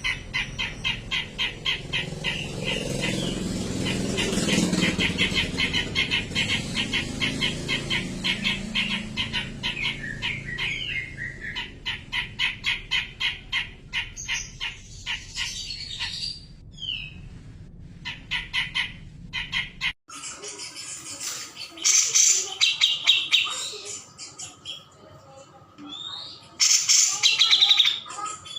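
Cucak jenggot (grey-cheeked bulbul) song played as masteran audio: a fast, steady run of repeated chirps, fading out about two-thirds through. About twenty seconds in, the recording cuts abruptly to quieter calls broken by two loud bursts of chattering calls near the end.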